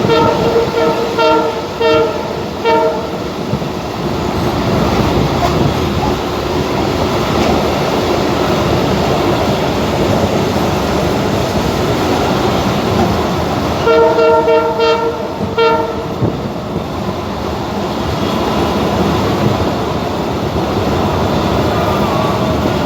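Passenger train running, a steady rumble of wheels on rails heard from on board. Its horn sounds a run of short blasts in the first few seconds and again about two-thirds of the way through.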